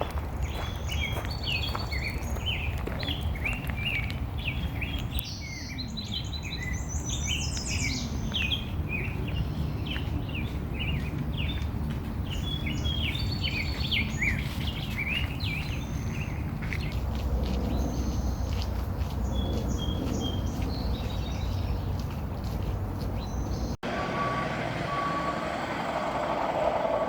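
A chorus of songbirds chirping and calling, with a quick rising trill about six seconds in, over a steady low rumble. About 24 seconds in the sound cuts abruptly to a different outdoor ambience with a faint repeated tone.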